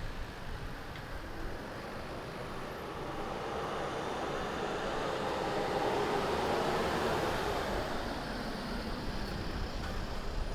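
Street traffic noise, with a vehicle passing that grows louder through the middle and fades toward the end.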